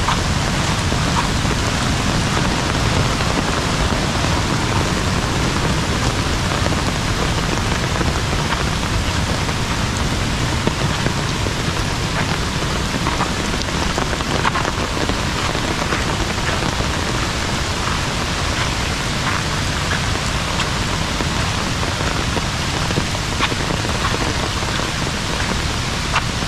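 Heavy rain falling steadily, with sharp individual drop ticks scattered through the hiss.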